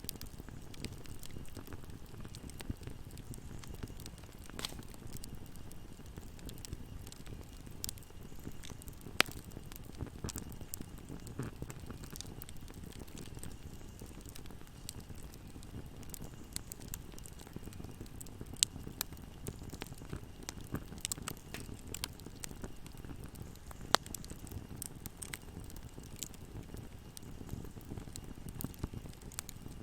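Wood fire burning in a fireplace: a steady low rumble of flames with constant crackling, and a few louder sharp pops scattered through.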